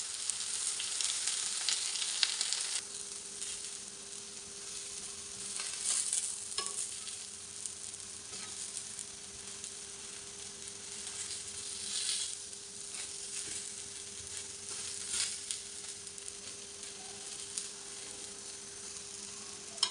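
Spice-coated eggplant slices sizzling in oil on a flat griddle (tawa) over medium-low heat, a steady hiss that swells up a few times as tongs shift the slices.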